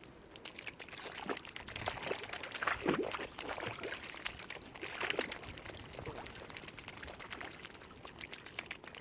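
Water splashing and lapping in many small, irregular splashes.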